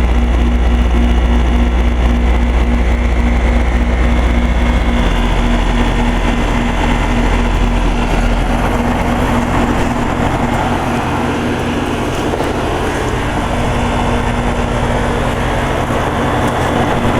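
Circa-2005 York 4-ton heat pump outdoor unit running in heat mode, its compressor and fan giving a loud steady hum. About five seconds in the deep hum drops away and a broad rushing noise builds, the unit shifting into a short defrost cycle.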